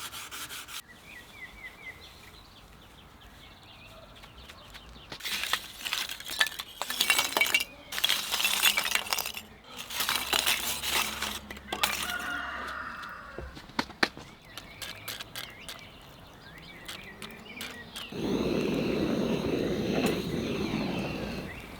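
Workshop handling sounds on a rusty knife being restored: a run of scrapes and sharp metallic clinks and knocks. Near the end, a steady rushing noise lasts about three seconds, then cuts off.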